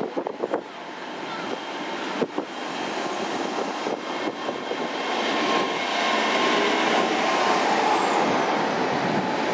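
GWR Hitachi Class 800 train pulling out of the platform and gathering speed, its running noise growing steadily louder as the carriages pass. A high whine rises in pitch and then falls away near the end.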